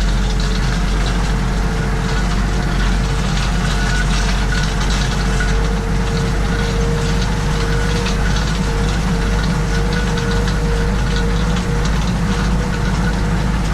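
Tractor diesel engine running steadily under load while pulling a grass harrow.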